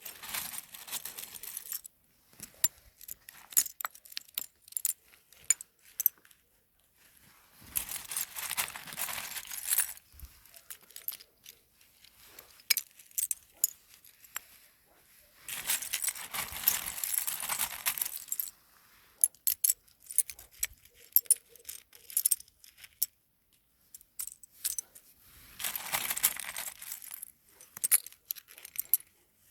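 Small hard objects rattling and clinking in four bursts about eight seconds apart, each lasting two to three seconds, with scattered single clicks and taps between the bursts.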